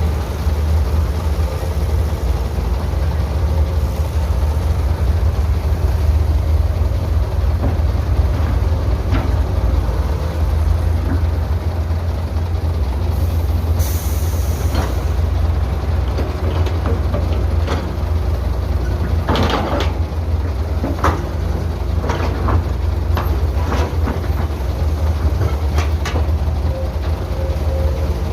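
Heavy diesel earthmoving machinery running with a steady low rumble. There is a brief hiss about halfway through and scattered metallic clanks in the last third.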